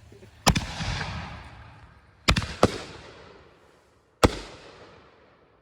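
Consumer fireworks going off: four sharp bangs, each followed by a fading rumble. The first comes about half a second in, two come close together a little after two seconds, and the last comes just past four seconds.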